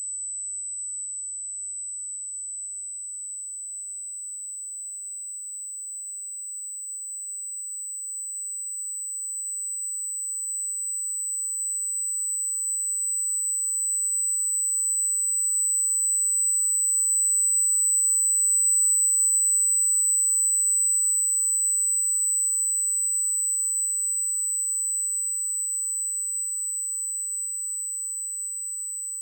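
A steady, high-pitched electronic tone with two faint accompanying tones, one higher and one lower. It slowly swells louder to a peak about two-thirds of the way through, then eases off. The tone is presented as a sound of outer space.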